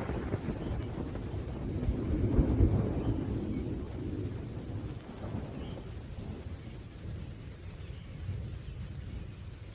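Rolling thunder over steady rain. A low rumble swells about two to three seconds in and then slowly dies away, leaving the rain.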